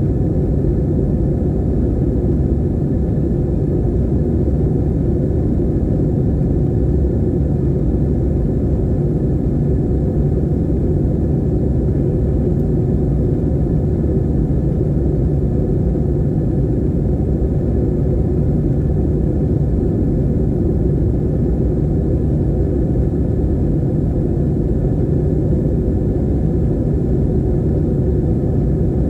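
Aircraft cabin noise in flight: a steady, unchanging low rumble of engine and airflow.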